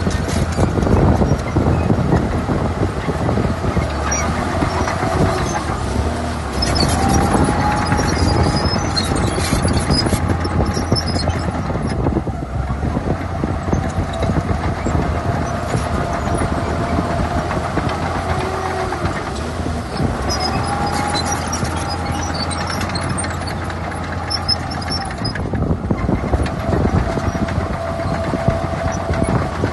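Diesel engine of heavy earthmoving machinery running steadily under work, with a wavering high squeal over it and scattered light clicks.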